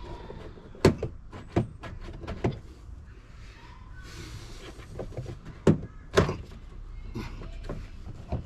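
Several sharp knocks and clunks of plastic bumper and wing trim being pulled and knocked as it is worked free, with a short hiss near the middle. The loudest knocks come about a second in and around six seconds. The part is still held by a hidden fastener, which the mechanic suspects is a rivet.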